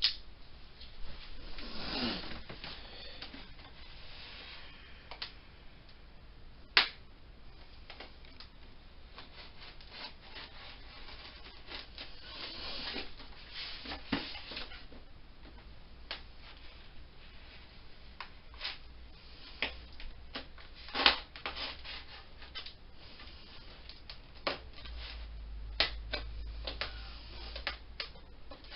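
A knife cutting and scraping open a tape-wrapped package: rustling and scraping, broken by scattered sharp clicks and knocks.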